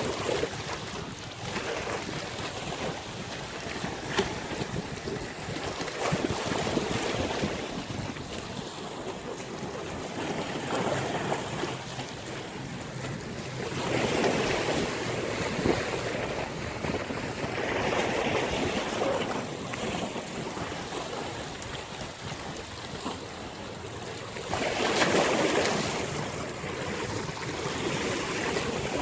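Sea waves breaking and washing on a beach: a continuous rushing surf that swells and falls back several times, with the biggest surge near the end.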